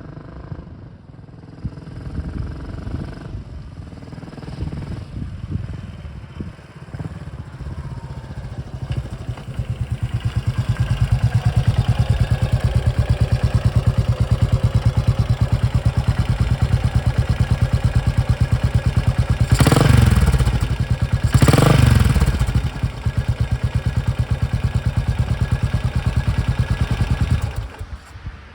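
Custom Yamaha SR400 single-cylinder four-stroke engine running through an up-swept vintage-style muffler: uneven and quieter at first, then a loud, steady idle thump. Two quick throttle blips rise and fall about two-thirds of the way through, and the engine is switched off near the end.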